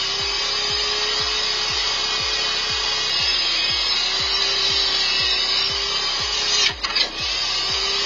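Circular saw cutting through wood: a steady cutting noise over an even motor tone, briefly broken off a little before seven seconds in. Background music with a fast thumping beat runs underneath.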